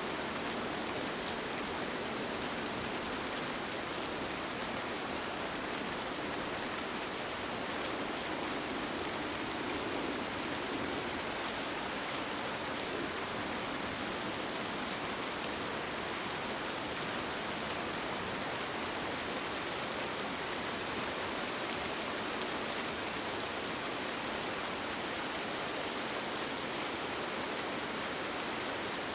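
Steady rain pattering on a tent, an even hiss with faint individual drop ticks and no change in strength.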